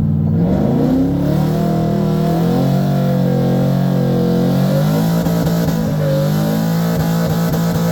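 Truck engine revving hard, its pitch climbing over the first second and then held high, wavering up and down under sustained throttle.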